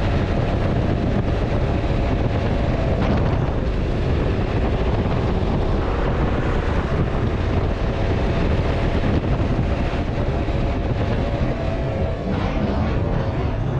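Motorcycle riding at speed: a steady engine under heavy wind noise on an onboard camera's microphone.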